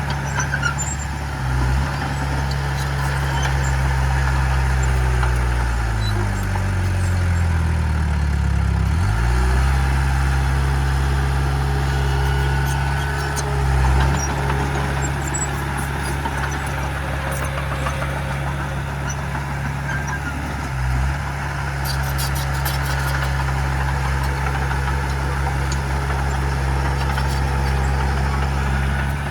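Heavy diesel engine of earthmoving equipment running steadily; about six seconds in its engine speed falls for a few seconds and then picks back up. Short low bumps come through near the middle and later.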